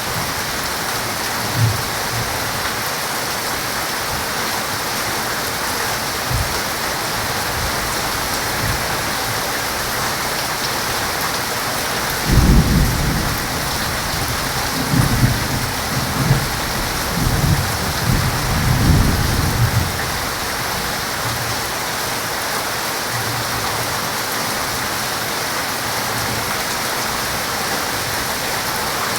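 Heavy rain falling steadily, with a roll of thunder that breaks in sharply about twelve seconds in and rumbles on in several surges for some eight seconds before dying away.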